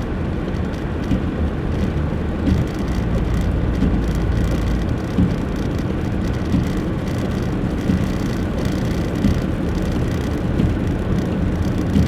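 Car being driven: a steady low rumble of engine and road noise, with a few brief small knocks.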